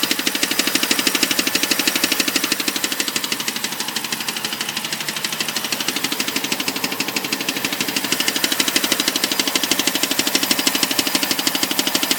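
Rapid, even clicking from a running BMW E60 545i with its 4.4-litre V8, a weird noise whose cause is unknown. The ticking eases off a little in the middle and comes back up.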